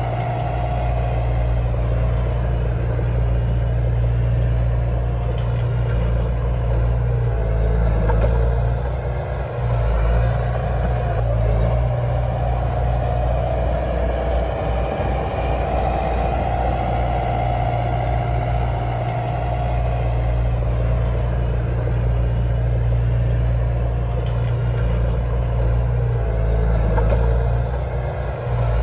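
Komatsu D31 bulldozer's diesel engine running steadily with a deep hum. The engine note shifts for a few seconds in the middle as the load changes, then settles again.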